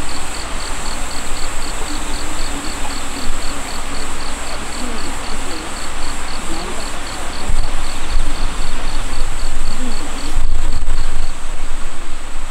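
Insects calling in a chorus: a steady high buzz with a pulsed chirp repeating about four times a second, over an even hiss. A low rumble comes in about two-thirds of the way through and again near the end.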